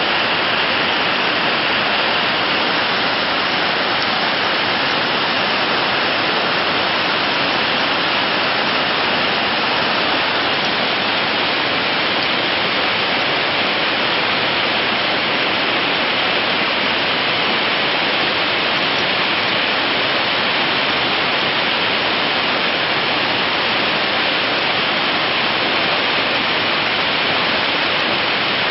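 Steady, unchanging rushing hiss, even across the pitch range and constant in level.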